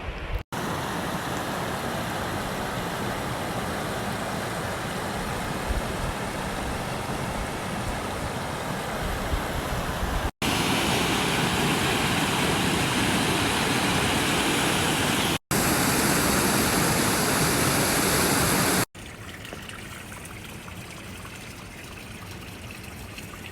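Flowing creek water, a steady rushing noise, broken by brief abrupt dropouts where clips are spliced together. It is louder through the middle part and softer near the end.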